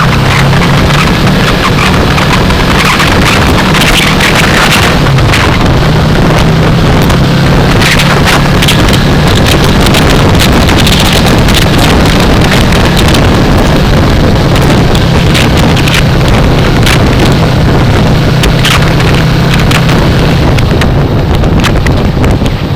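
Loud wind rushing over a helmet-mounted microphone, gusting unevenly, with the 2015 Yamaha R3's 321 cc parallel-twin engine running at a steady speed underneath.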